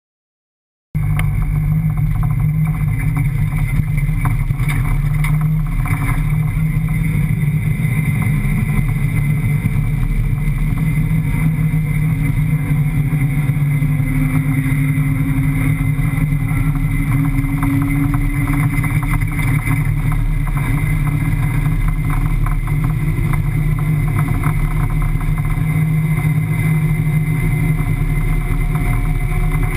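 5.7-litre Hemi V8 rally car driving across sand dunes, heard from inside the cabin: the engine runs steadily under load with constant rattling and knocking from the body and fittings. The sound starts suddenly about a second in.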